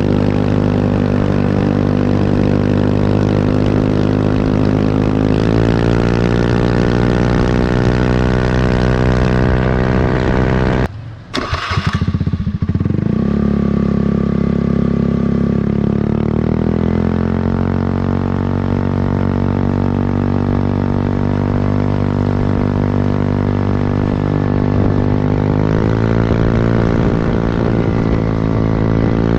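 Automatic scooter's single-cylinder engine running through an aftermarket quiet-type (CMS-copy 'adem') exhaust, idling and being revved in steps. Shortly before the middle the sound breaks off for about a second and a half, then the engine runs on, with another rise in revs near the end.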